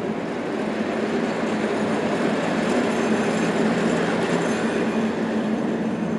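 A train passing, a steady rolling noise that grows louder toward the middle and eases slightly near the end.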